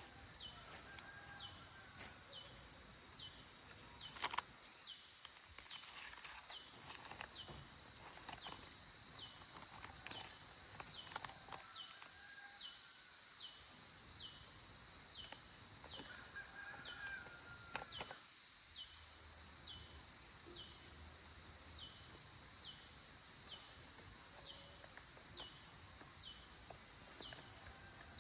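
Outdoor field ambience: insects shrilling on one steady high note, with a short chirp repeating about once a second. Faint bird calls come through now and then, with a few light clicks.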